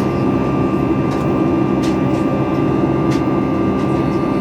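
Steady jet engine drone and rushing air inside the passenger cabin of a Boeing 737 MAX 8 in flight, with a steady high whine over it.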